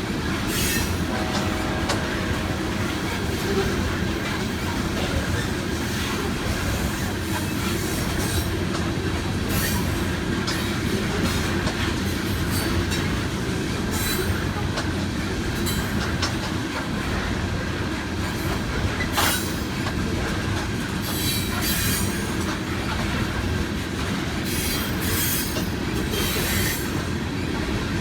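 CSX freight train's cars rolling past in a steady, unbroken rumble, with wheel squeal and rail clatter coming and going throughout.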